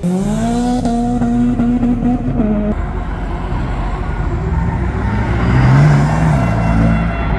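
Car engine revved and held at steady revs for about two and a half seconds, then released to a lower rumble, with a shorter rise and fall in revs near the end.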